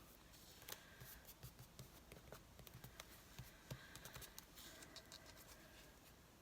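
Near silence with faint, scattered taps and light scratching of paper being handled and pressed by hand.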